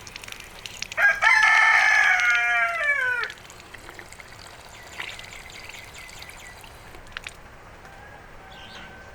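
A rooster crowing once: one loud call of a little over two seconds that drops in pitch at the end. Faint bird chirps sound around it.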